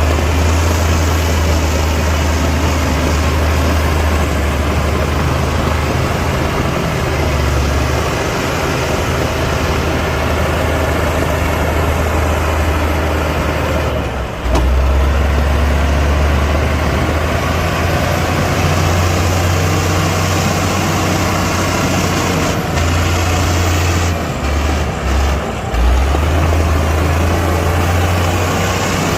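Heavy diesel engine of earthmoving machinery running steadily under load, with a brief dip about halfway through.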